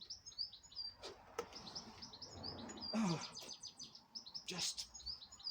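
Small birds chirping over and over: quick runs of short, high chirps that dip in pitch.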